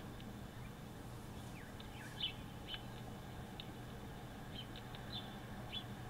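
Short, high bird chirps scattered through, with a few quick falling notes, the loudest about two seconds in, over a steady low hum.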